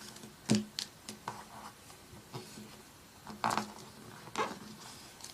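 A sheet of paper being folded and creased by hand: short rustles and crinkles, the sharpest about half a second in and again about three and a half seconds in.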